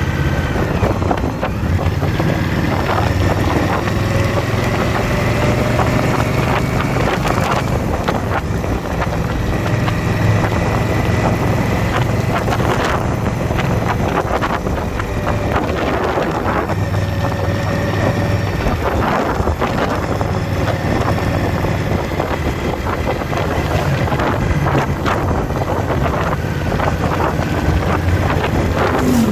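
Motorcycle engine running steadily at road speed, with wind buffeting the microphone.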